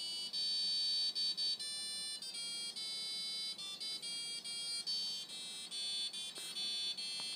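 Washing machine's electronic beeper playing a tune: a run of high, pure beep notes of different pitches and lengths, one after another like a melody.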